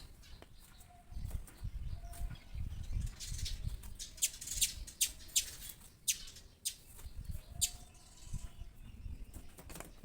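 Small bird fighting its reflection in a mirror: wing flutters, with a run of sharp taps in the middle.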